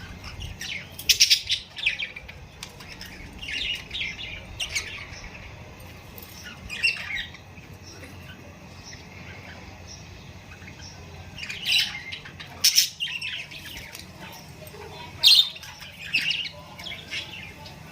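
A flock of budgerigars (budgies) chattering and squawking in irregular bursts of high, warbling calls, the loudest calls near the start and in the last third, over a steady low background hum.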